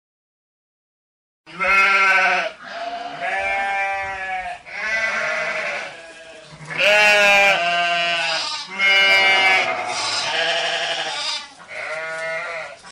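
A series of about eight loud, wavering pitched animal calls, each about a second long, beginning about a second and a half in.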